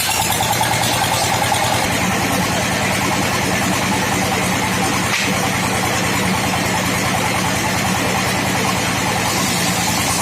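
Old sawmill machine running steadily and loudly, its engine giving a rapid, even beat under a dense mechanical noise.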